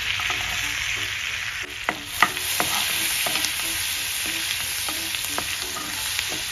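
Chopped garlic sizzling in hot butter in a frying pan while a wooden spatula stirs it: a steady hiss with scattered sharp pops, the loudest a little over two seconds in.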